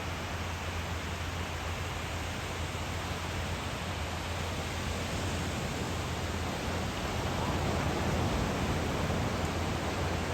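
Steady rushing noise of surf and wind at the beach, swelling slightly in the second half.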